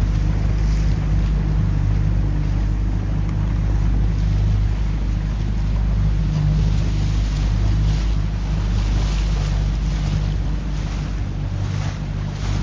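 Motorboat engine running steadily at speed, under wind rushing over the microphone and water noise from the hull.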